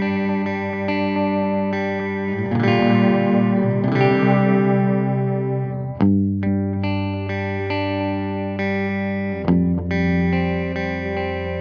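Electric guitar chords played through an analog bucket-brigade-style delay pedal, each chord ringing out with repeats trailing behind it. A new chord is struck about every three and a half seconds.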